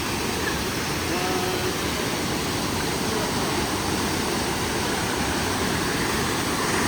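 Waterfall running: a steady, even rush of falling water. A faint voice is heard briefly about a second in.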